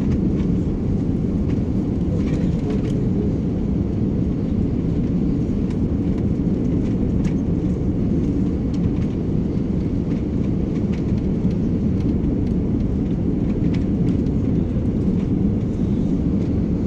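Steady low rumble of airliner cabin noise, an even drone that holds unchanged throughout.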